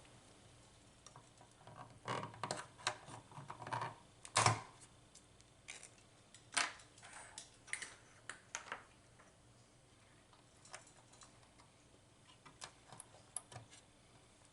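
Scattered small clicks and taps of a chip being handled and pressed into its socket on a circuit board, busiest in the first nine seconds with the loudest click about four and a half seconds in, then only a few faint ticks.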